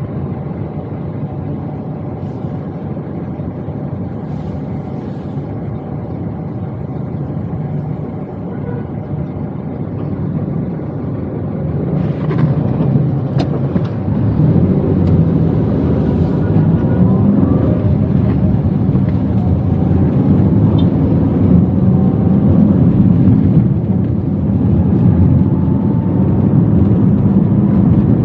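Toyota Wigo's engine and road noise heard from inside the cabin while driving: a steady low rumble. It grows louder about halfway through as the car picks up speed, with a rising engine note.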